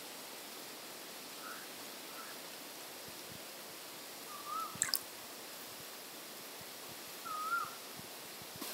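Faint steady hiss with a few short bird calls, wavering whistled notes, the clearest about four and a half seconds in and again near the end. A single sharp click comes just before the five-second mark.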